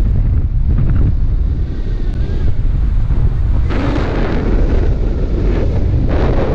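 Wind buffeting the microphone during a paraglider flight: a steady, heavy rush that grows stronger about four seconds in.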